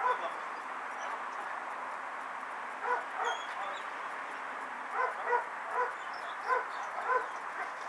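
A dog barking in short single barks: one at the start, two together about three seconds in, then a steady run of barks roughly two a second over the last three seconds.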